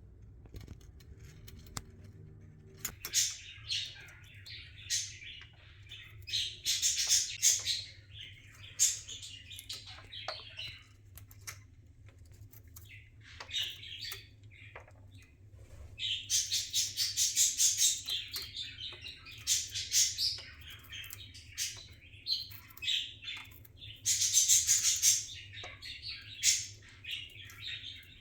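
Budgerigar chirping and chattering in bursts of rapid high notes, starting about three seconds in, with longer runs of chatter partway through and near the end.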